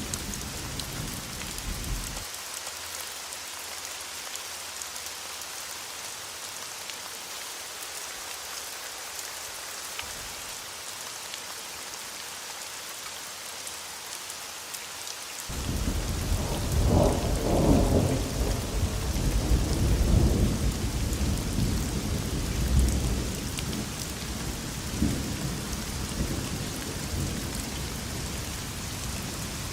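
Steady rain falling during a thunderstorm. A low rumble of thunder dies away about two seconds in. Past the halfway point a long roll of thunder rises and rumbles on, loudest a few seconds after it starts, then slowly fades under the rain.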